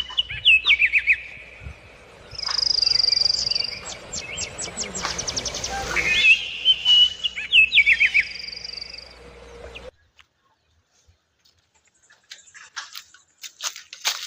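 A songbird singing, with high whistled notes and quick trills, for about ten seconds before stopping suddenly. Near the end come a few short, dry scratchy clicks.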